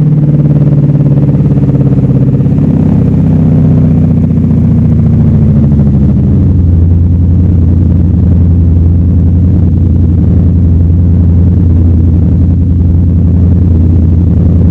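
V8 engine idling. Its speed slides down over the first few seconds, then holds at a steady, low, even idle.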